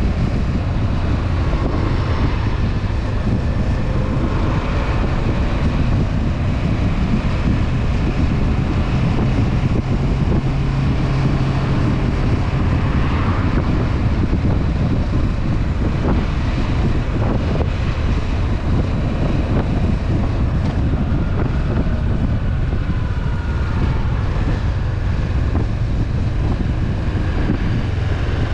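Honda CB500F parallel-twin engine running steadily while riding, with heavy wind noise buffeting the camera microphone.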